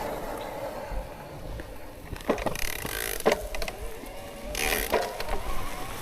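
Bicycle rattling over rough ground, with a few sharp knocks and clicks from the bike and short bursts of crunching noise.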